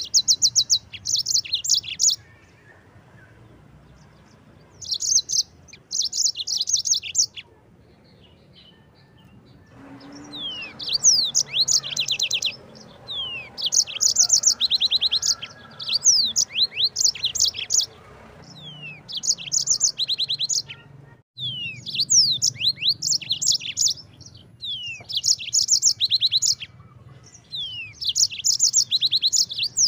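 Yellow-fronted canary (Mozambique bird) singing: repeated bursts of fast, high trills of about two seconds each, with quick falling whistled notes between them.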